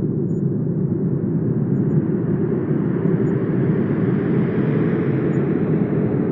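Wind blowing in a steady low rush, swelling gently in a gust through the middle.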